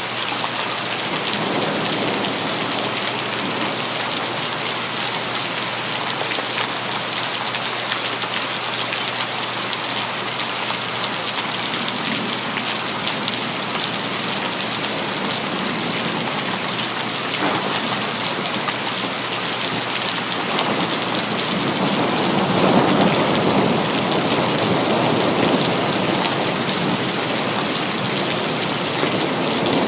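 Steady rain falling, with a rumble of thunder swelling about two-thirds of the way through and fading near the end.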